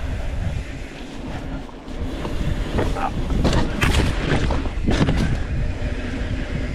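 Mountain bike riding down a dirt trail: wind buffeting the microphone over a low rumble of tyres on dirt, with a cluster of sharp rattles and knocks from about three to five and a half seconds in as the bike goes over rough ground.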